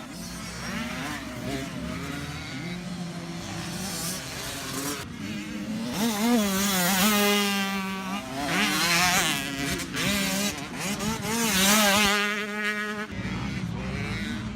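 Motocross dirt bikes riding the track, their engines revving hard, rising and falling in pitch as they accelerate and shift. They are loudest in the second half, with several bikes overlapping.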